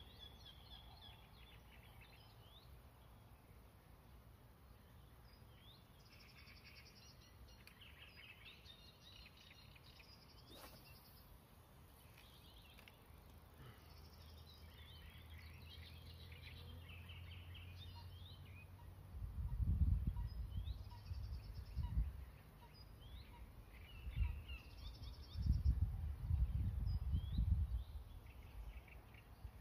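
Songbirds singing and calling in short chirps and trills throughout. Twice in the second half, a low rumble on the microphone is the loudest sound.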